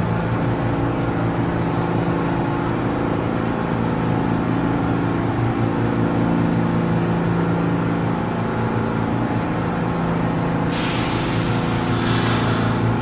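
New York City subway train in the station, its equipment giving a steady low hum. A sudden hiss of air starts near the end.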